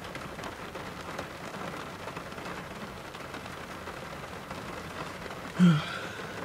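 Steady rain falling, an even hiss. About five and a half seconds in comes one brief, louder, voice-like sound.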